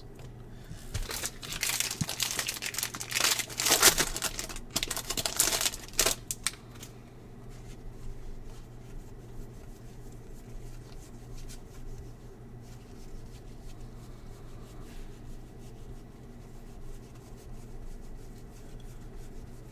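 Foil wrapper of a baseball card pack being torn open and crinkled for about five seconds, then quieter rustling and light clicks of cards being handled.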